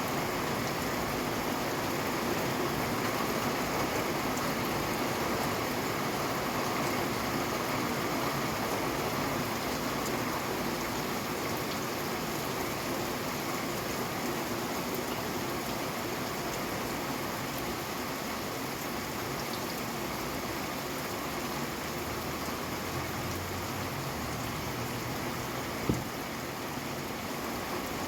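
Steady rain falling, an even hiss of drops. A single sharp tap stands out near the end.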